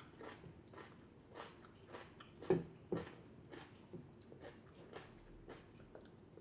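A person chewing food close to the microphone, with soft, scattered mouth clicks and smacks. Two louder smacks come about two and a half and three seconds in.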